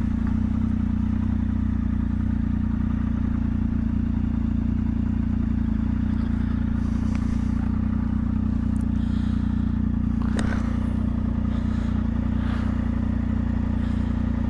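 Motorcycle engine idling steadily while the bike is pulled in and stopped, with a couple of faint rustles and a click.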